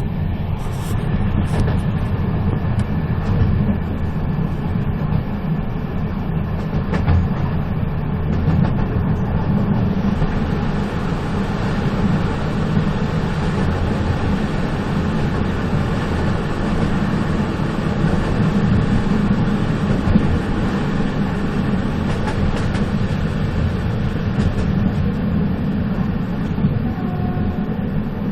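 Moving train running steadily: a continuous low rumble with a rushing hiss over it, which grows brighter about ten seconds in.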